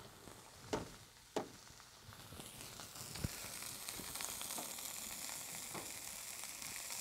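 Chicken pieces sizzling in hot oil in a stainless-steel sauté pan: a steady frying hiss with small crackles that grows slightly louder after a couple of seconds. A few light clicks in the first seconds as metal tongs are set down on the wooden counter.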